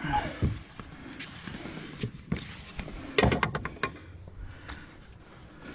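Knocks and clacks from fixing fibre-cement slates in place, with a quick run of several sharp taps about three seconds in.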